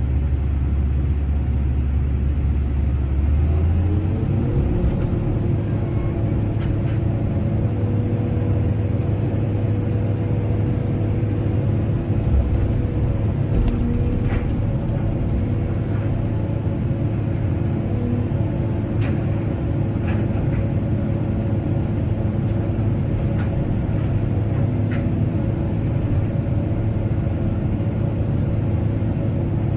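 Excavator diesel engine running steadily under work, its note stepping up about four seconds in, with a faint high whine for a stretch and a few scattered light clicks.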